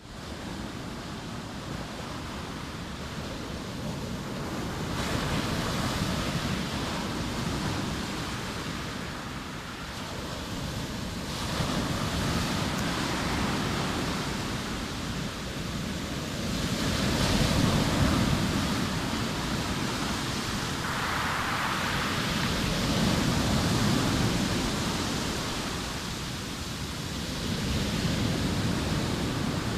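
Sea waves breaking and washing up the shore, a steady rush that swells and eases every five to six seconds.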